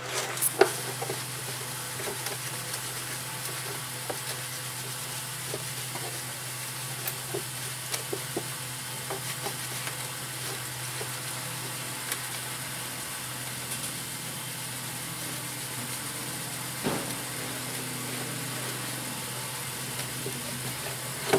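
A steady hiss over a low hum, with scattered light clicks and taps.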